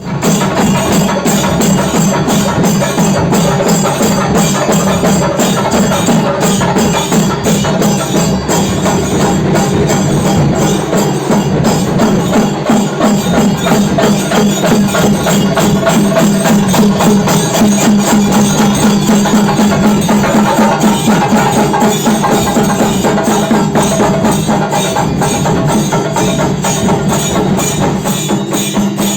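Dollu and nagari drums beaten in a fast, unbroken rhythm: dense drum strokes with a strong low drum tone.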